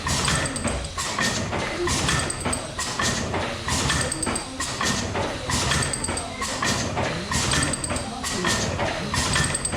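1901 Smith Brothers and Eastwood tandem compound steam mill engine, running on its high-pressure cylinder only, working steadily: a regular clanking beat of valve gear and steam, about once a second.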